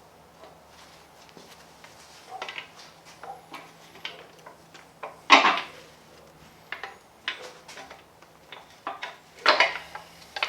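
Metal engine parts and hand tools clinking and clanking during a Gen 4 Hemi bottom-end teardown as the crankshaft is being removed. There are scattered light knocks, with two louder clanks about halfway through and near the end.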